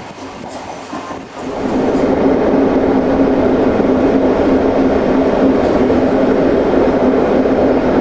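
ÖBB CityShuttle passenger train running on the track, heard from inside the coach. The rolling noise grows suddenly louder about a second and a half in and then stays loud and steady, with a constant hum under it.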